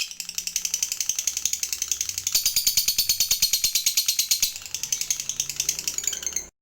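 Lovebird giving its long rapid chattering trill, the 'ngekek panjang' prized by lovebird keepers: about a dozen sharp, high notes a second, dipping softer for a moment past the middle and cutting off suddenly near the end.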